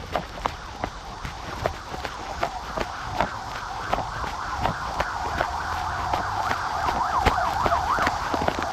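Running footsteps, about two and a half a second, with a steady rising sound in the background that wavers quickly up and down near the end.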